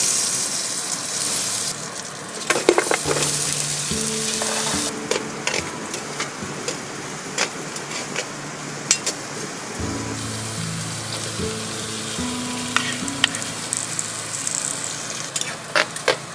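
Food sizzling as it fries in a pan, the hiss strongest in the first couple of seconds, with scattered clicks and light clinks of a utensil stirring. Background music with slow held notes plays underneath.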